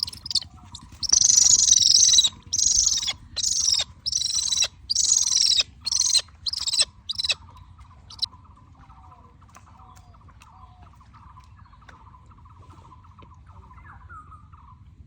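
A bird giving a series of about seven loud, harsh, hissing screeches, each about a second long, that stop about seven seconds in. A faint, fast repeated chirping continues after them.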